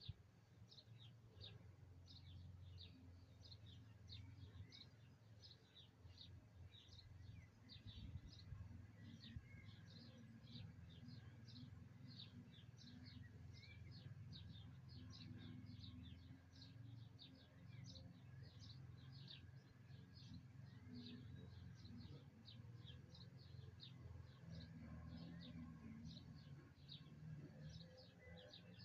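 Small birds chirping faintly in a dense stream of short, high, quickly falling notes, several a second, over a steady low rumble.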